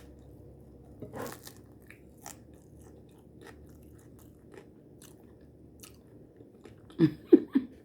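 A person chewing a mouthful of taco, with scattered crunches and mouth clicks, then three louder short mouth sounds in quick succession near the end.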